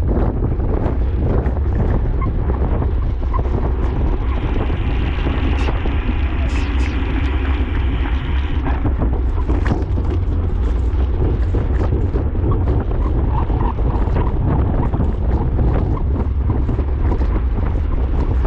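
Wind buffeting the microphone of a camera on a racing bicycle at speed: a steady, heavy low rumble. A fainter, higher hiss joins for a few seconds near the middle.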